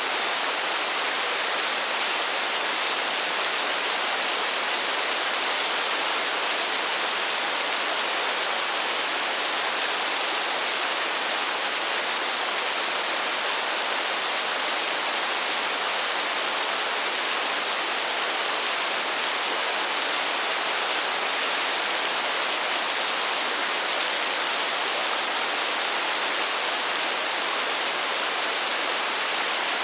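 Steady rain falling in a forest: an even, unbroken hiss with no separate drops standing out.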